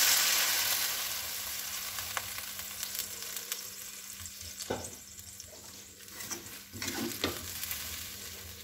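Water poured into hot oil in a wok of fried tempeh, garlic and shallots, sizzling loudly at first and dying down to a softer hiss as the water takes the heat. A few short scrapes of the metal spatula against the wok come in the second half.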